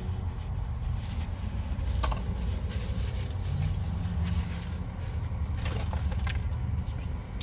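Steady low rumble inside a car, with a few sharp clicks and crinkles from handling takeout food and its wrappers while eating. A brief low hum comes about three and a half seconds in.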